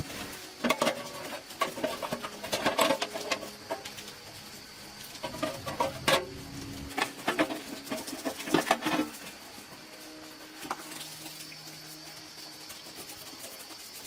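Irregular clinks, taps and knocks of hand tools and metal parts being handled, a few strokes a second in clusters, over a faint steady high whine.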